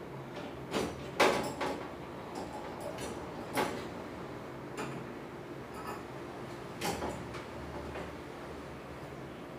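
Scattered clicks and knocks of metal stove parts being handled and fitted during a repair, the loudest about a second in, over a faint steady low hum.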